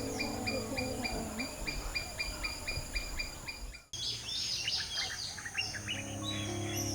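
Outdoor chirping. First comes a steady series of short chirps at about four a second. After a brief cut, a busier mix of bird chirps follows, with soft background music coming in near the end.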